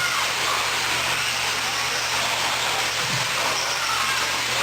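Electric 1/10-scale 4WD short course RC trucks racing: a steady whir of motors and tyres with faint whines that rise and fall, over a low steady hum.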